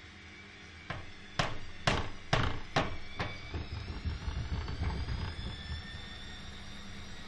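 Siemens iQ300 washing machine knocking: about six sharp knocks roughly half a second apart, then weaker knocks, as a rising motor whine climbs in the second half as the drum speeds up. These are the strange noises that make the owner wonder whether the machine is already faulty.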